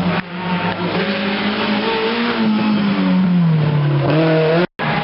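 Rally car engine running at high revs as the car passes close by. Its note wavers, then falls in pitch over about a second near the end as the car slows. The sound cuts out abruptly for a moment just before the end.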